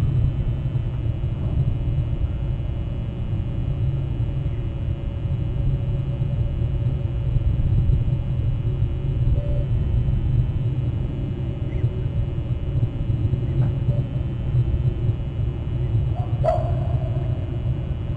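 A steady low rumble on an outdoor microphone, with a few faint distant calls and one sharper, short call with a falling pitch near the end.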